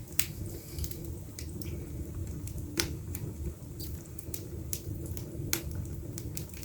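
Wood fire crackling in an open fireplace: scattered, irregular sharp snaps and pops over a low steady background.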